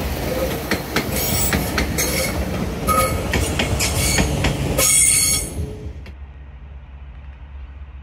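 A train running through on the rails, its wheels clicking irregularly over joints and pointwork with short squeals of wheel on rail. About six seconds in the train sound drops away, leaving a low steady rumble.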